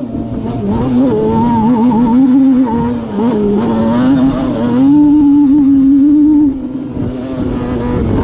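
Yamaha Banshee's two-stroke twin engine, bored out with a Cheetah 426 big-bore kit, running hard under a rider, its pitch rising and falling as the throttle is worked. It backs off briefly about six and a half seconds in.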